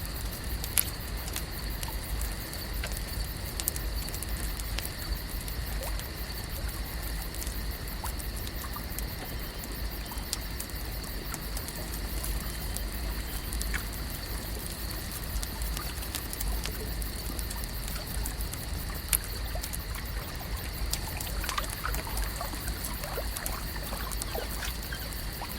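Lake ambience: water gently trickling under a steady high hum, with scattered faint clicks and a few short chirps near the end.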